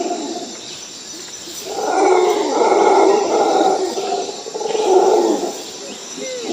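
Rough animal calls, loud, in two long stretches: the first starts about two seconds in and lasts over two seconds, the second is shorter, near the end. A faint steady high tone runs underneath.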